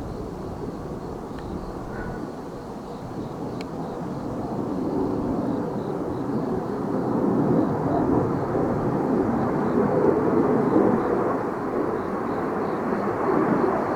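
Military aircraft in flight: its engine noise builds from about four seconds in, is loudest around ten seconds, then eases a little, with wind buffeting the microphone.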